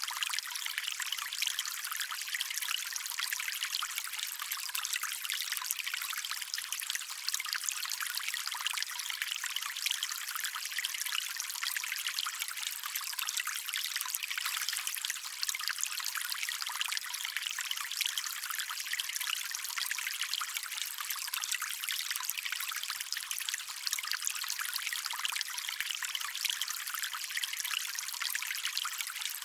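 Small stream's water trickling and running steadily, a light bright splashing with almost no low rumble.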